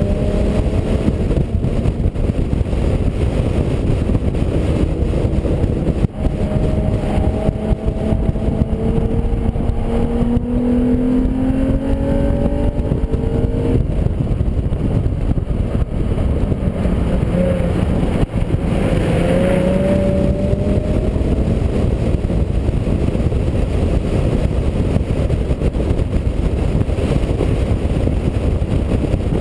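2004 Infiniti G35 coupe's 3.5-litre V6 engine heard from inside the cabin at track speed, its pitch rising several times as it accelerates out of corners. It runs over a loud, steady rushing noise.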